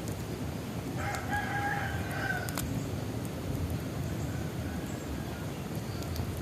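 A rooster crowing once, about a second in, a single drawn-out call that drops in pitch at its end, over the steady low rush and scattered snaps of a crackling bonfire.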